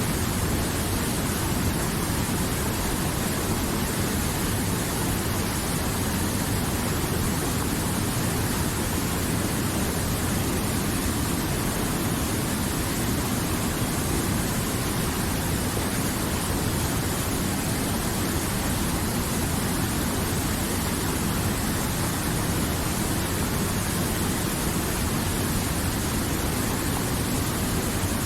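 River water flowing, a steady, even rush with no change in level.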